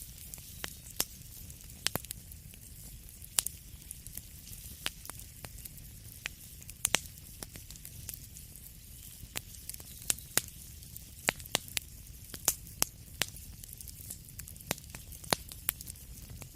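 Fireplace fire crackling: irregular sharp pops and snaps, coming thicker in the second half, over a steady low rumble and soft hiss.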